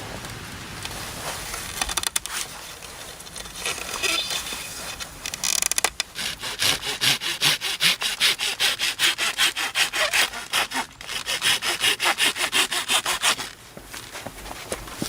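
Hand saw cutting through wood in a steady run of back-and-forth strokes, about three a second. Some looser scraping comes first, and the sawing stops a little before the end.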